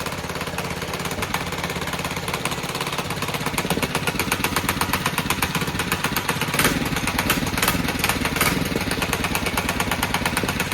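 Old small gasoline engine running steadily with rapid, even firing pulses, a little louder in the second half. It is running smoothly and crisply, freshly revived.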